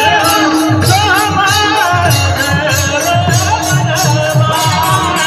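Marathi kirtan devotional music: a wavering abhang melody over steady mridang drum strokes, with hand cymbals jingling on the beat.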